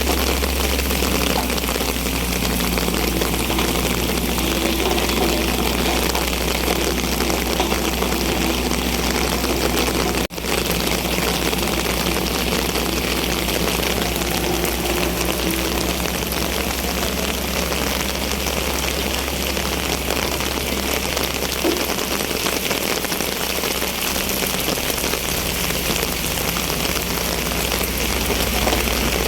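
Heavy rain falling in a steady hiss, with an engine's low rumble running underneath. The sound breaks off for an instant about ten seconds in.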